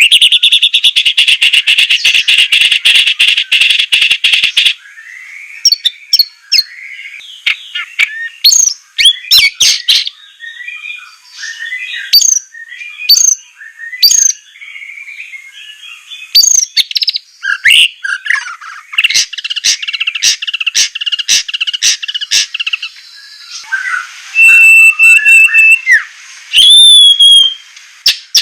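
White-rumped shama (murai batu) singing a loud, varied song. It opens with a harsh, rapid buzzing rattle lasting about five seconds, then moves through sharp whistled notes and chatter, another buzzy stretch, and a held whistle near the end.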